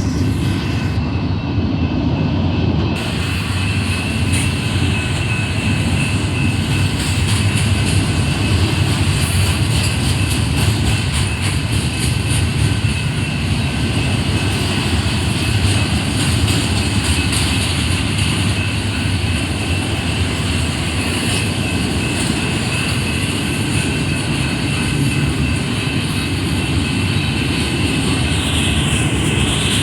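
Union Pacific intermodal freight train rolling past: a steady rumble of wheels on rail as the cars go by.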